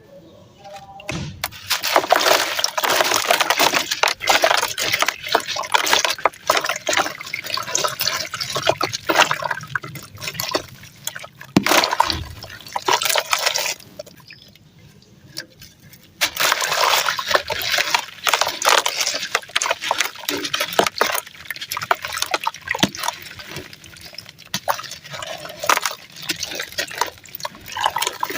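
A dry, gritty ash-like texture being crushed and crumbled, a dense crackling crunch made of many small sharp ticks, with a quieter lull a little past halfway before it picks up again.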